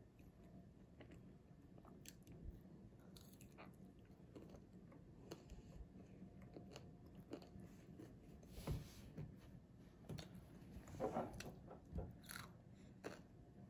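Faint chewing and biting of roasted potato pieces, with small clicks of fingers picking food from a plate and a few louder crunchy bites in the second half.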